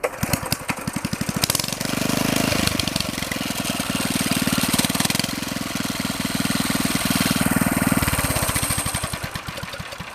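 Small single-cylinder pit bike engine firing up and running, picking up speed about two seconds in and slowing back toward idle near the end.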